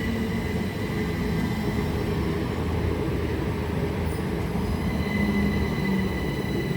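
GWR Class 387 electric multiple unit at the platform line, a steady electric whine over the continuous rumble of the train.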